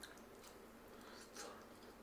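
Faint, wet mouth sounds of a person biting into and chewing soft sweet potato, with a few quiet clicks and smacks.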